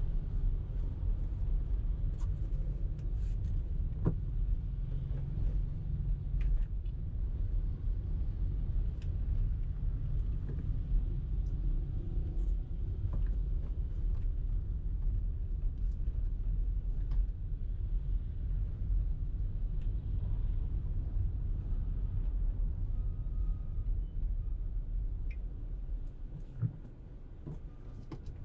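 Steady low rumble of a car being driven, with road and engine noise and a few faint ticks. It drops quieter for a couple of seconds near the end.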